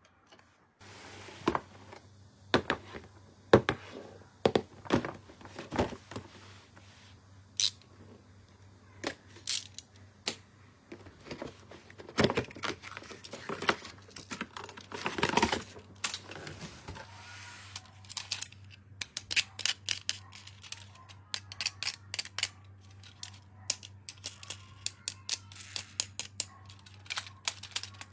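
Hands unboxing plastic toys: packaging crinkling and tearing in uneven strokes, then a quick run of many small sharp plastic clicks in the last third.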